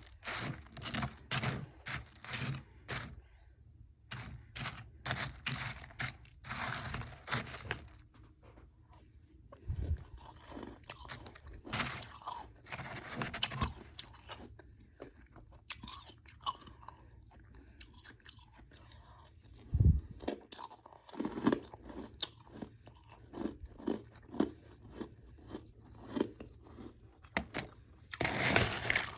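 Close-up chewing of frozen powdery ice and chunks: runs of sharp crisp crunches at first, then slower, softer chewing. A low thump comes about two-thirds of the way through, and a loud run of crunching comes near the end.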